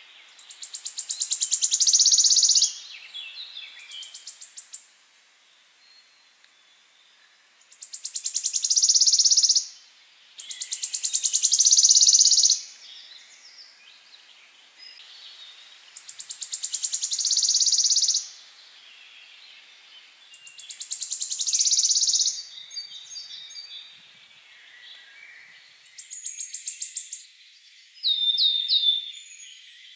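A songbird singing the same loud, high song phrase about seven times, every few seconds. Each phrase opens with a fast run of ticks that speeds up into a dense, buzzy high trill, with softer chirps between the phrases.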